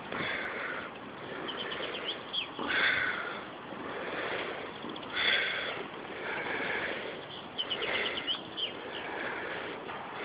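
Birds chirping in short clusters over uneven rustling and scuffling.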